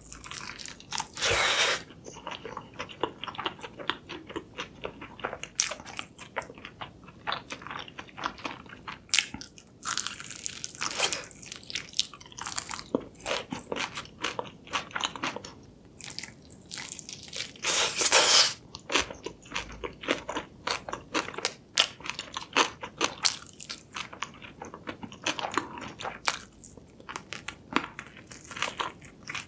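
Close-miked eating: crunchy bites into a spicy sauce-coated chicken drumstick, then chewing, with many small sharp crackles. Two louder, longer crunching bites come about a second and a half in and again just past the middle.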